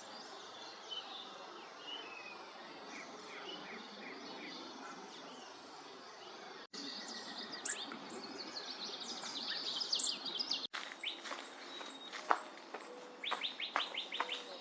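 Wild songbirds singing and calling in several short outdoor recordings spliced together, with the background hiss changing abruptly twice. First come faint scattered chirps, then louder rapid trills, and near the end a quick run of sharp down-slurred notes.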